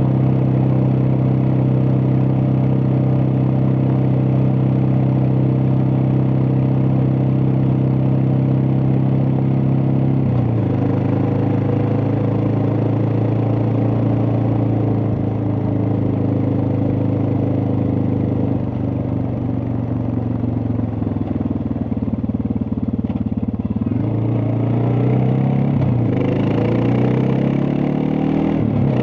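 Suzuki DR650's single-cylinder four-stroke engine under way, running steadily at first. Engine speed drops about ten seconds in and sags further past the middle, then climbs again with rising revs broken by gear changes near the end.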